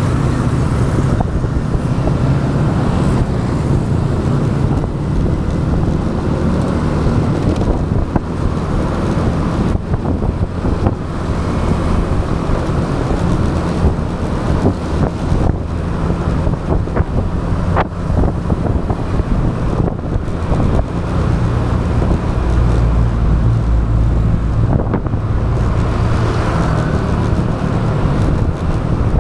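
Motorbike engine running at riding speed, with wind rush on an action camera's microphone and road noise. A few short clicks and knocks come through.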